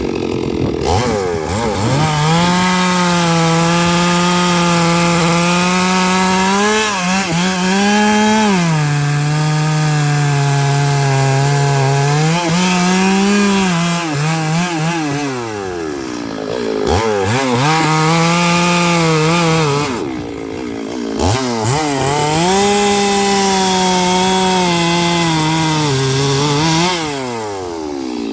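Stihl MS 382 two-stroke chainsaw ripping lengthwise through eucalyptus logs at full throttle, its engine pitch sagging under the load of the cut and picking back up again and again. Twice, past the middle, the revs drop away briefly and rise again, and the engine drops off once more near the end.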